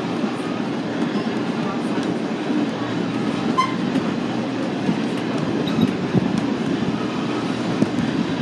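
Railroad passenger car rolling along the track: a steady low rumble with faint ticking from the wheels.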